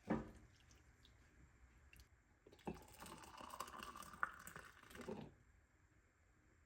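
Quiet household handling sounds: a single knock right at the start, then about two and a half seconds of rustling and scraping with small clicks.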